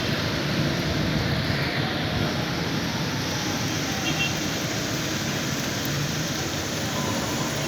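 Steady outdoor wash of road traffic on rain-wet streets, an even rumble and hiss with no single event standing out.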